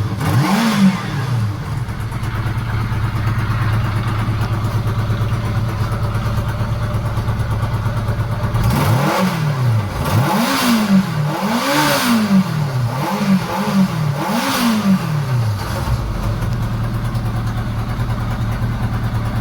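Kawasaki GT750 four-cylinder engine idling evenly, then blipped about five times in a row in the middle before settling back to a steady idle. It is running smoothly with its carburettors freshly synchronised.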